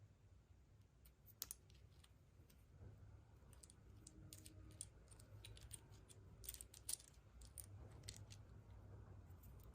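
Faint, irregular clicks and light taps of small plastic objects being handled, a few close together about seven seconds in.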